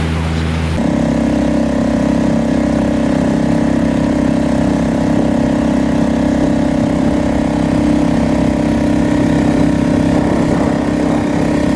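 Small boat's motor running steadily at constant speed. About a second in, its sound steps abruptly to a new, slightly higher steady drone, which then holds.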